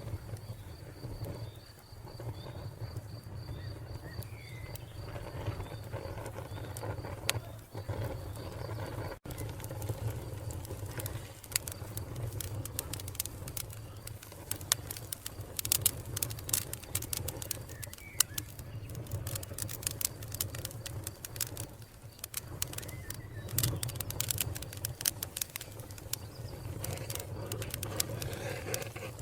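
Wood fire crackling, with sharp pops and snaps that grow dense from about a third of the way in, over a steady low rumble. A cricket chirps at an even, high pitch through the first part, and there are a couple of faint bird chirps.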